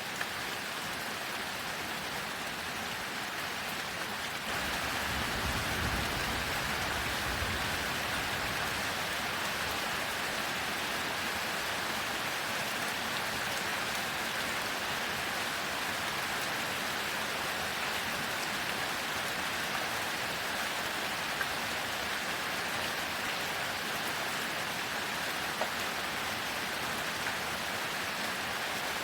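Heavy rain falling steadily, with a low rumble of thunder that starts about four seconds in and dies away over the next few seconds.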